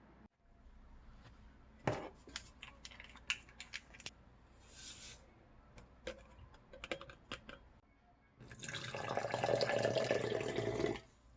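Scattered light clicks and knocks, then water running from a tap for about two and a half seconds before it shuts off abruptly.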